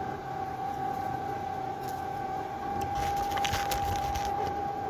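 Steady drone of a ship's engine with one constant whining tone over a noisy rumble, and a few sharp clicks about three seconds in.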